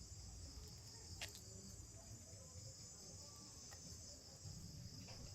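Faint, steady, high-pitched chorus of crickets and other insects at dusk, with a single click about a second in.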